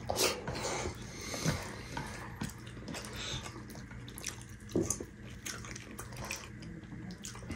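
Soft wet chewing and lip-smacking of people eating dhido and greens with their fingers, with scattered small clicks and one slightly louder smack about five seconds in.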